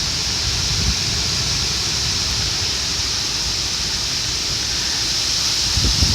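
Heavy rain pouring down in a steady hiss, with gusting wind buffeting the microphone in an uneven low rumble.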